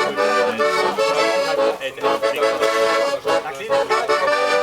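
Accordion playing a tune in held, sustained chords.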